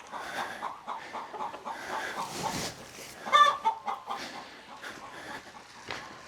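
Chickens clucking in a quick run of short calls, with one louder, sharper squawk a little past halfway.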